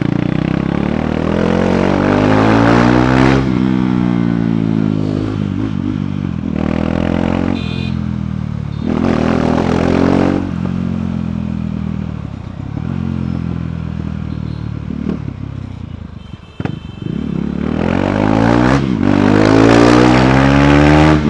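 KTM Duke 390's single-cylinder engine through its stock exhaust while riding, the revs climbing through the gears and dropping back several times. A single sharp crack comes as the revs bottom out about two-thirds of the way through, before the engine pulls up again.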